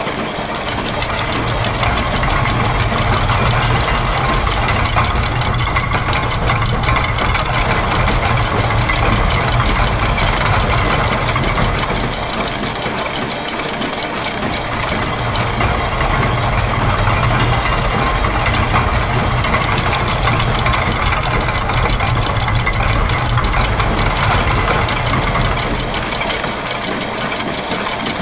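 Dense, continuous mix of looped factory machine sounds layered over each other: a steady low machine rumble with fine mechanical ticking and rattling on top. The high ticking thins out briefly twice.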